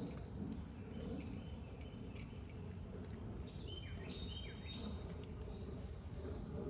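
Backyard birds chirping over a steady low background rumble, with a quick cluster of chirps about halfway through.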